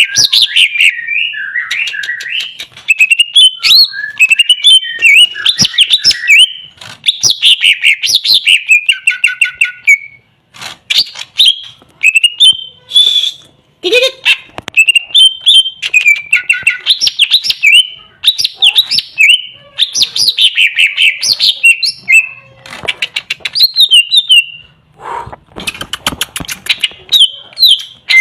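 Cucak ijo, a green leafbird, singing loudly: rapid phrases of sweeping whistles and quick chattering notes, with brief pauses between bursts.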